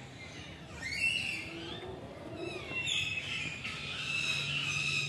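Birds calling: high, wavering calls that fall in pitch, about a second in and again from about three seconds in, over a steady low hum in the second half.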